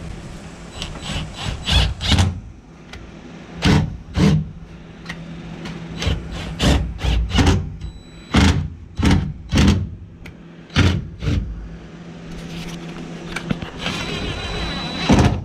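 Sump bolts being tightened by hand with a ratchet or wrench: a run of short, separate rasping strokes in small irregular groups, with a longer rasping stretch near the end.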